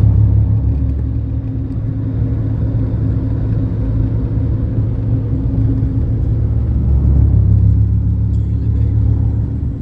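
Motor vehicle running at a steady speed: a continuous low engine and road drone with a constant hum, no revving or stops.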